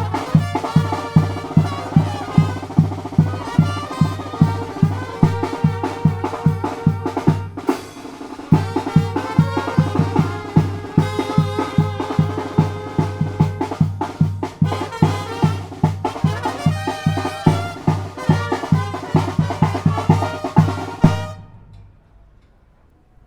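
Zacatecan tamborazo band playing: brass over a steady beat of bass drum and snare, about three beats a second. The song ends about 21 seconds in.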